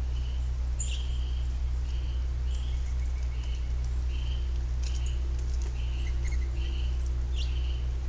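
A small bird chirping repeatedly, short high calls about once a second, over a steady low hum. A few sharp taps fit a pileated woodpecker pecking at a wire suet feeder.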